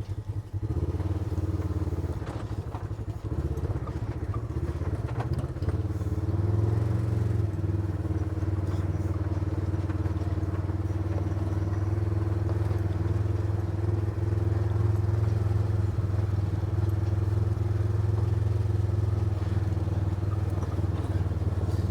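A vehicle's engine running steadily under way, with a low drone and a constant hum above it that picks up slightly about six seconds in.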